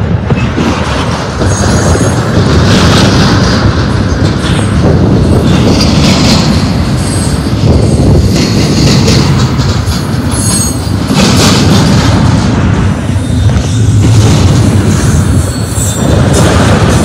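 Double-stack intermodal container well cars rolling past at close range: a loud, steady rumble of steel wheels on the rails, with intermittent high wheel squeal.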